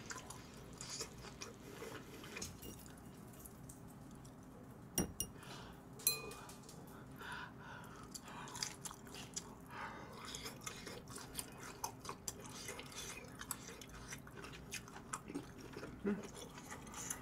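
Close-miked chewing of pan-grilled Hanwoo sirloin steak, with soft wet mouth clicks and smacks throughout. Two sharp clicks about five and six seconds in, the second briefly ringing.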